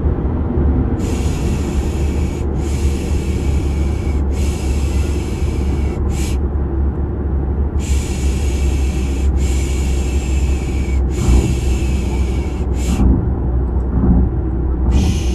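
Steady low rumble of a car ride, engine and road noise, under a repeated shushing 'pşşş' for lulling a baby. The shushes come as three long ones of about a second and a half each, then a short one, and the group plays twice with a pause between.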